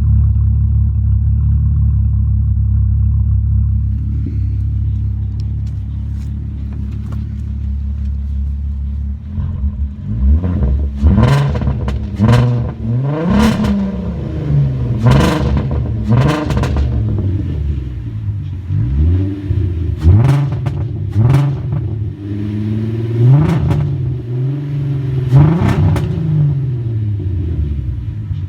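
VW Golf GTI VR6 engine idling steadily, then revved in a series of quick throttle blips from about nine seconds in, the revs rising and falling each time. The engine has a cylinder 3 misfire, which the owner suspects comes from a coil pack or the timing chain tensioner.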